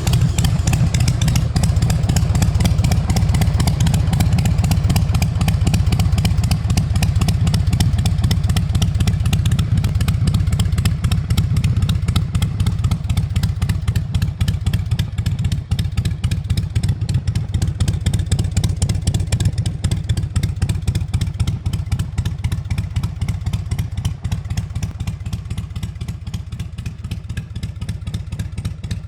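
Harley-Davidson V-twin motorcycle engine running steadily just after starting, with a rapid, even exhaust pulse. It grows a little quieter over the last several seconds.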